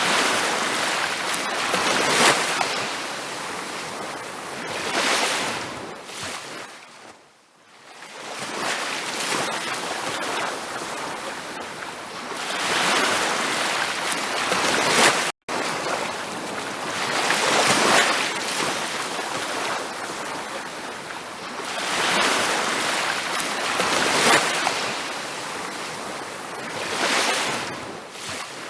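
Waves breaking and washing up a beach in repeated surges a few seconds apart, with a deeper lull about a quarter of the way in and a momentary cut to silence about halfway.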